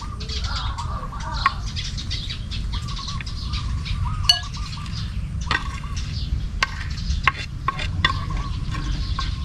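Birds calling with a repeated warbling call over a steady low rumble, with scattered light clicks and knocks.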